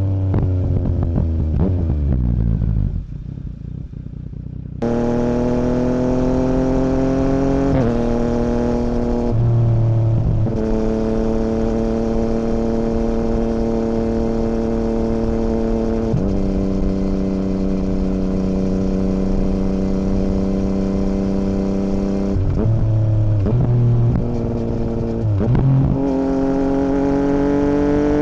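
2017 Yamaha MT-09's three-cylinder engine through an Akrapovic Racing Line carbon full exhaust with no dB killer, heard while riding. The revs fall and drop low for a moment early on, then rise and hold steady for long stretches, with several steps up and down in pitch between, and climb again near the end.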